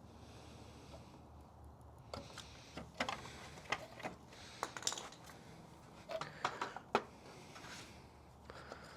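Scattered clicks and light knocks, thickest in the middle stretch, from hands working at a rubber coolant hose on the dirt bike's radiator to twist it loose.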